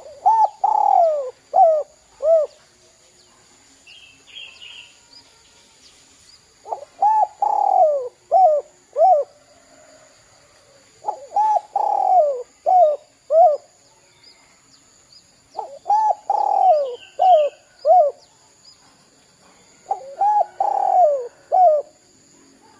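Derkuku (spotted dove) cooing in the 'kuk 2' style. Five phrases about four to five seconds apart, each a long falling coo followed by two short clipped coos.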